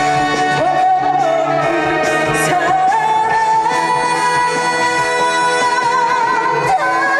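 A woman singing a trot song live over a band backing track, holding long notes that step up in pitch.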